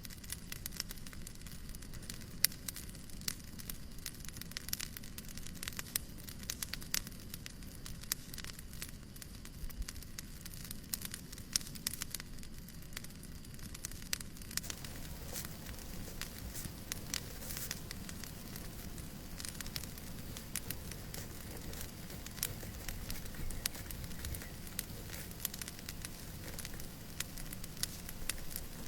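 Wood fire crackling in a fireplace: irregular sharp pops and snaps over a steady low hiss, which grows fuller about halfway through.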